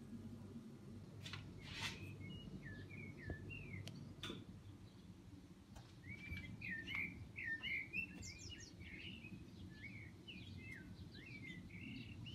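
A songbird chirping in quick runs of short, hooked notes over a low, steady background hum.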